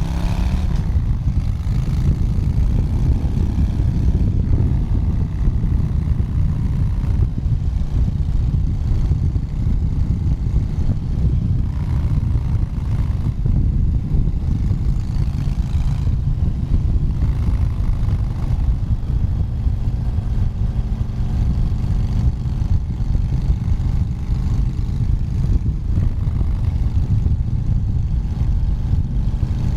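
Motorcycle riding along a highway: the engine runs steadily at cruising speed under a heavy, constant low rumble. The engine's pitch climbs briefly right at the start as it accelerates, then levels off.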